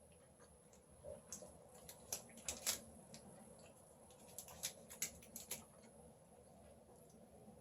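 Faint wet mouth clicks from chewing a sticky, chewy chocolate-covered candy bar, coming in two short clusters, one about a second in and one about four and a half seconds in.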